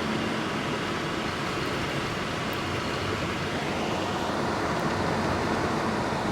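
Car driving slowly over a road still patched with ice and snow: steady tyre and road noise.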